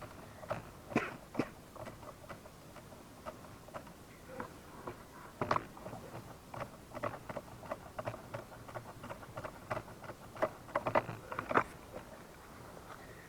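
Footsteps through undergrowth: irregular light crackles and rustles of dry leaves and twigs, with small clusters about five seconds in and again near eleven seconds.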